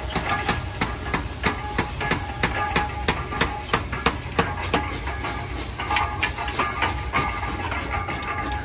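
Sharp metal strikes in a gear-forging shop, about three a second, thinning out after about five seconds, over a steady machine hum and hiss.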